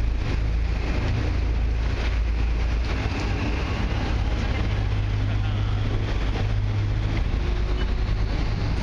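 Boat engine running steadily under way, a constant low rumble with wind noise on the microphone.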